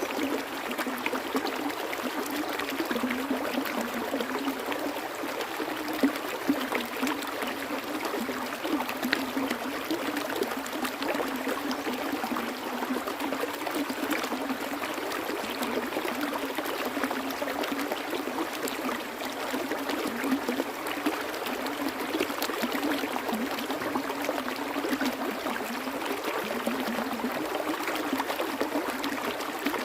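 Water flowing steadily: an even, continuous rush with fine trickling detail, like a small stream.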